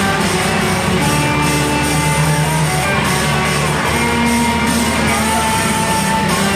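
Live band music, loud and steady, with guitar among the instruments and several held notes sounding together.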